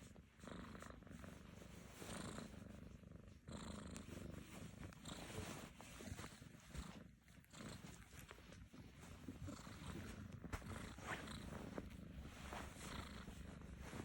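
A black-and-white kitten purring softly, swelling and fading every second or two with its breathing.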